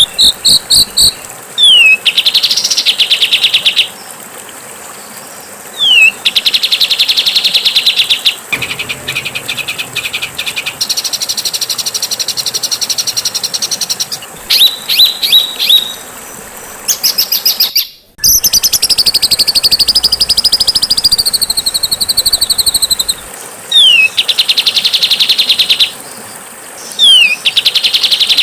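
Songbird song: loud, rapid, buzzy high trills alternating with short downward-sweeping whistles, repeated several times. The song cuts off abruptly about two-thirds of the way through, then returns as a long, wavering high trill.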